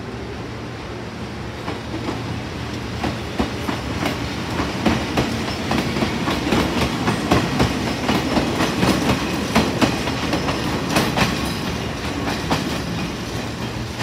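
Electric train running past, its wheels clacking over rail joints; the clatter builds, is loudest about halfway through, then fades.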